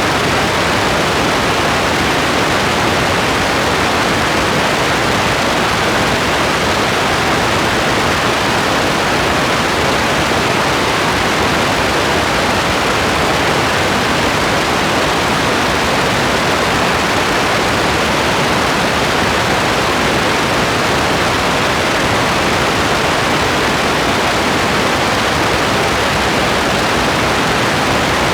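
Steady rain as an unbroken, even hiss with no single drops standing out and no change in strength.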